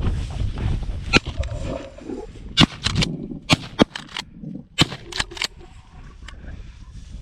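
A string of shotgun shots at flushing grouse: sharp reports, one about a second in, then several in quick succession over the next four seconds, from two guns.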